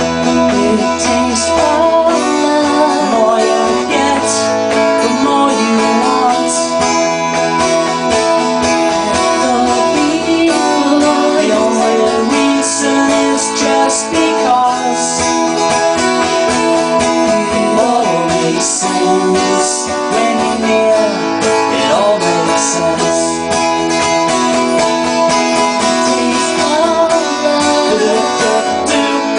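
Live acoustic band playing an instrumental passage: acoustic guitars strumming and picking over held keyboard notes, at a steady level.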